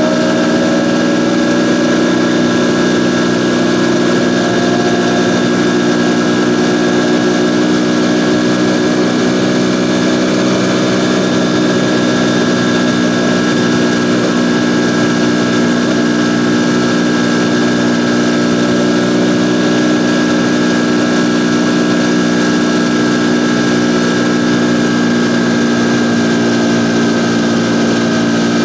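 Ducati Panigale V4's V4 engine running at a steady, unchanging pitch, loud and even.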